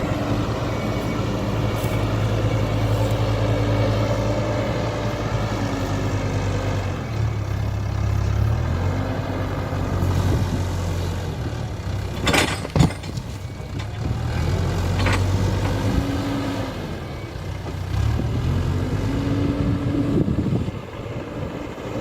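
Hidromek 102B backhoe loader's diesel engine running and revving up and down as the hydraulics work, with a few sharp knocks about twelve to thirteen seconds in and another a couple of seconds later.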